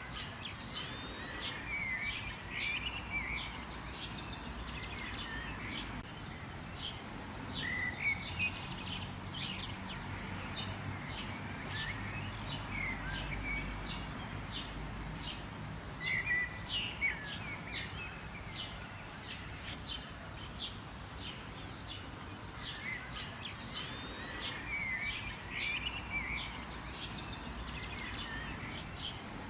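Birds chirping and singing: a dense run of short, high chirps with whistled phrases that come back every few seconds, over a low, steady background rumble.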